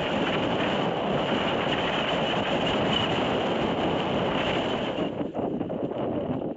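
Heavy thunderstorm rain pouring down with wind, a loud steady rushing hiss that swells in and cuts off sharply near the end.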